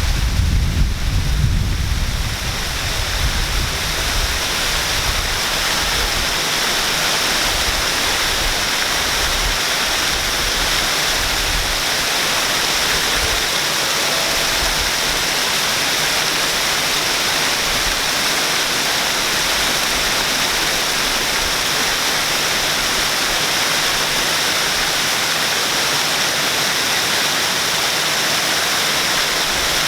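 Waterfall rushing steadily, an even, unbroken roar of falling water. A low rumble fades out in the first couple of seconds.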